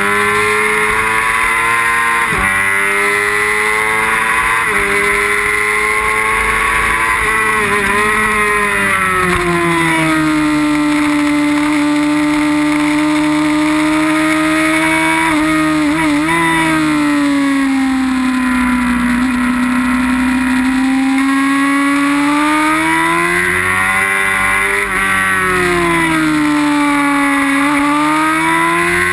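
Onboard sound of a racing sport bike's engine at high revs, climbing and dropping sharply twice in the first five seconds as it shifts up, then falling as the bike slows, with quick blips about halfway through, and climbing again later in the lap. A steady rush of wind noise lies under it.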